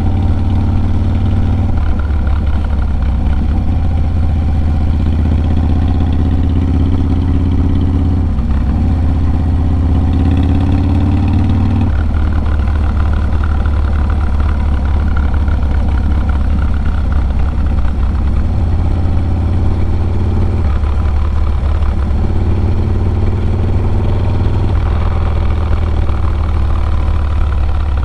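Harley-Davidson Low Rider S's 110 cubic-inch V-twin running loud through a Sawicki Speed 2-into-1 exhaust while riding. Its pitch climbs and drops back several times as the throttle and gears change.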